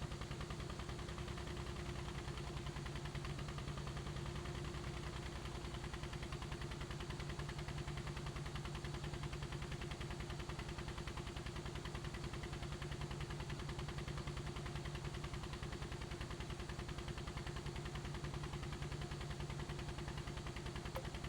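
Helicopter engine and rotor running steadily: a fast, even pulsing over a constant low hum.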